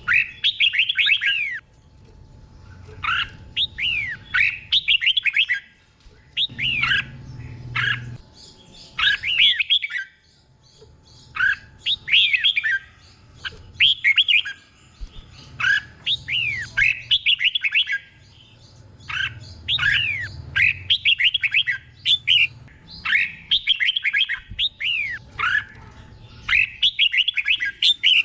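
Red-whiskered bulbul singing in short phrases of quick up-and-down whistled notes, repeated every second or two with brief pauses. The phrases come doubled, the 'double' song style that teacher birds are played to train young bulbuls in. A faint low hum runs underneath.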